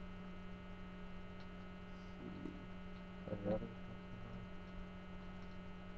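Steady electrical mains hum with a ladder of even overtones. A short, faint murmur of a man's voice comes a little past halfway.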